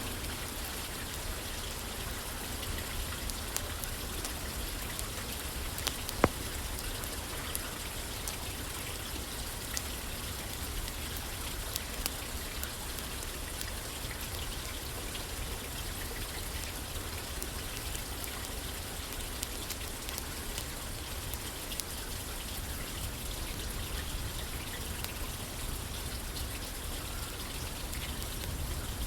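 Steady rain pattering on a roof, with scattered faint clicks and one sharper click about six seconds in.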